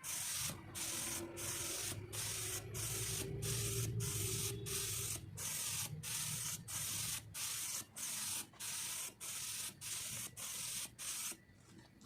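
Compressed-air spray gun fed by an oil-free air compressor, fired in short repeated trigger pulls: about two bursts of hissing air and spray a second, stopping shortly before the end.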